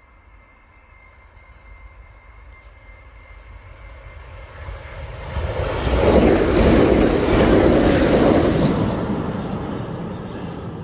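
A Southern multiple-unit passenger train approaching and passing close by on the rails. Its rumble builds from about four seconds in, is loudest for about three seconds, then fades as the train runs away.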